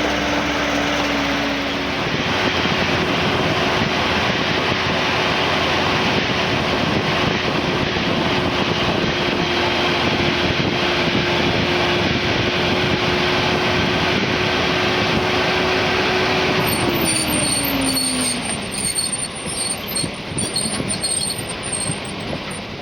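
A motor vehicle driving, with dense road and wind noise and a steady engine note. The engine note steps up about two seconds in and falls away about three-quarters of the way through as the vehicle eases off.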